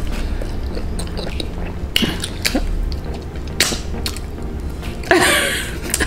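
Close-miked chewing of sauced chicken wings: scattered short wet mouth and lip smacks, with a longer, louder burst about five seconds in.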